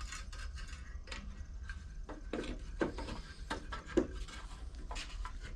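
Small metal parts being handled during carburetor work on a lawn mower engine: scattered light clicks and taps, the sharpest about three and four seconds in, over a steady low hum.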